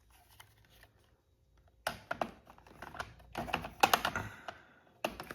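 Irregular plastic clicks and knocks, starting about two seconds in, as the vacuum's turbo brush attachment is worked against its holder on the machine while being fitted back on, which is very difficult.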